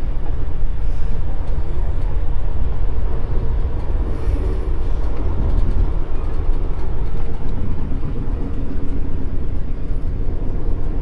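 Passenger train running: a steady low rumble of the rolling car, with a faint steady tone and scattered light clicks and rattles over it.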